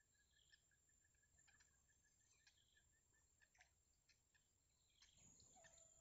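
Near silence with faint outdoor bird chirps, short clicks and a rapid series of soft ticks. Near the end a faint, drawn-out call begins.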